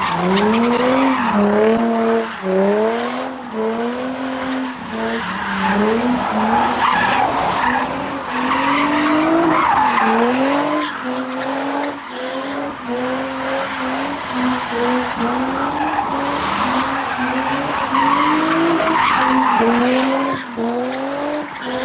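A car spinning its tyres, the engine revving up and falling back over and over while the tyres screech.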